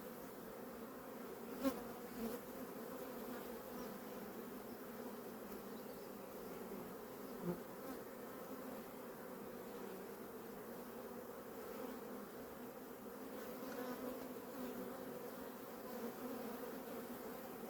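Honeybee colony humming in a steady drone, with a light knock about two seconds in and another about seven and a half seconds in.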